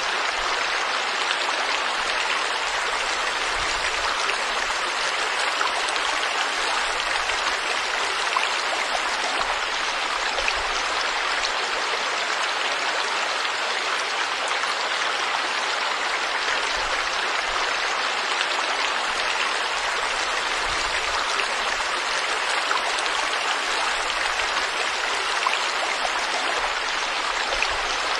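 Stream water flowing steadily, an even rushing and splashing over rocks.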